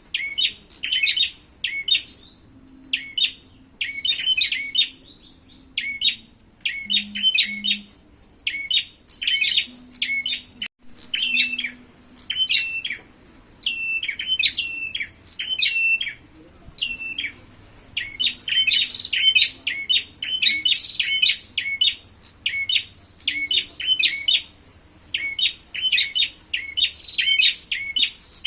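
Prenjak songbirds calling hard and fast in dense clusters of sharp, high chirps, one burst after another with brief gaps. These are the agitated calls given when the birds are fighting.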